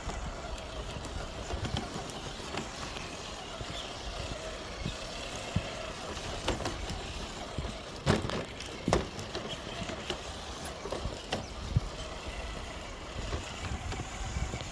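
Traxxas TRX-4 RC crawler driving over a forest trail: a steady hum with scattered knocks and cracks, the two loudest about eight and nine seconds in, over a low rumble of distant highway traffic.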